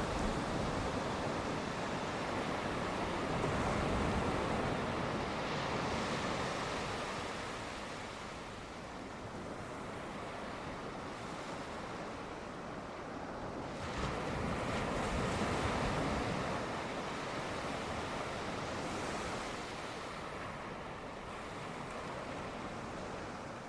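Sea waves washing onto the shore in a steady rush, swelling twice: a few seconds in and again a little past the middle.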